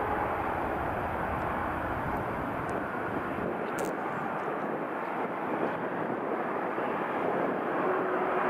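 Jet airliner engines running at taxi power: a steady, even roar with a faint steady whine that returns near the end, and one short click about four seconds in.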